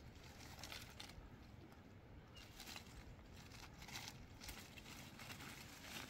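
Faint, irregular light taps and rustles over a low rumble, a few strikes a second.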